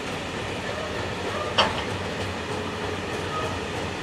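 Freight train of grain hopper wagons rolling past, a steady rumble of steel wheels on the rails, with a single sharp clank about one and a half seconds in.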